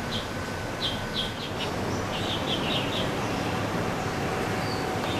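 A small bird chirping in short, quick notes, often in pairs, stopping about three seconds in, over a steady background hum.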